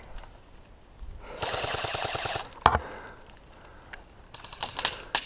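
Airsoft gun firing a full-auto burst lasting about a second, with a rapid rattle of shots. A single sharp crack follows, and near the end comes a quick string of clicks.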